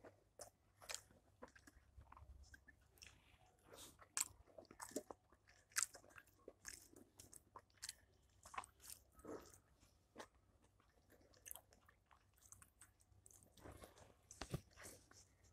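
Eating sounds of a meal of rice and vegetables eaten by hand: chewing with many soft, irregular clicks and smacks.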